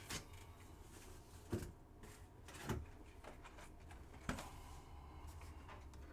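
Faint handling sounds over a low steady hum: three short soft knocks, spaced about a second apart, like things being set down or moved on a table.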